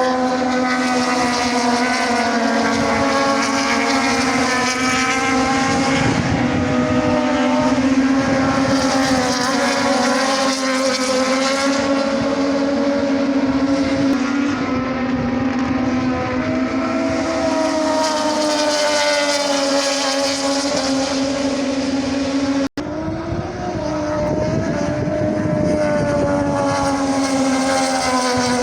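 An engine running steadily at high revs, its pitch drifting slowly up and down, with a momentary break about three-quarters of the way through.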